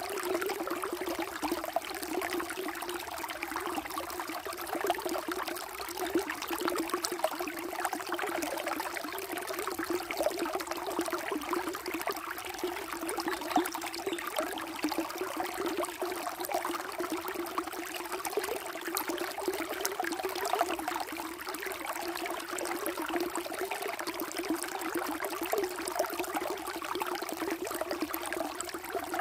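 Water flowing steadily over stones in a small stream, a continuous splashing trickle with no let-up.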